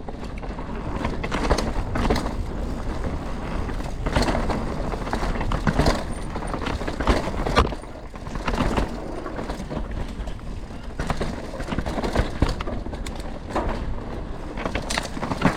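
Canyon Spectral 125 mountain bike descending a rough trail: tyres running over dirt and rock with frequent sharp rattles and knocks from the bike, and wind rumble on the microphone.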